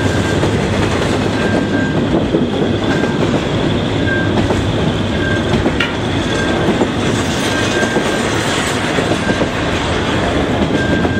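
Double-stack intermodal freight cars rolling past: a steady, loud rumble and clatter of steel wheels on the rails, with a short high squeak recurring about once a second.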